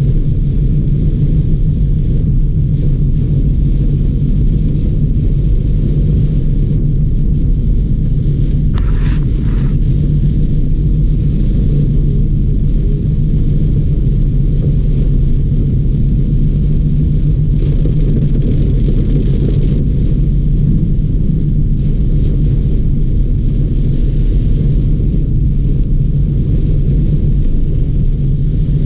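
Heavy rain, heard as a loud, steady low rumble. A short burst of higher-pitched noise about nine seconds in.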